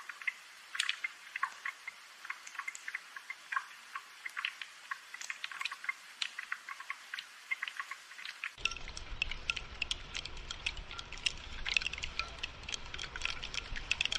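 Rain falling as dense, irregular drips and patters. About two-thirds of the way through the sound changes suddenly: a low rumble comes in under the drips and the drips grow denser.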